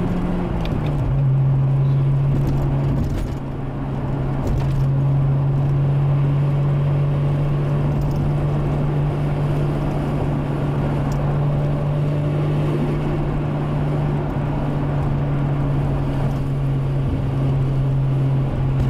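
Toyota Supra's turbocharged 1JZ inline-six engine droning at a steady pitch while the car cruises, the pitch dropping a little in the first second.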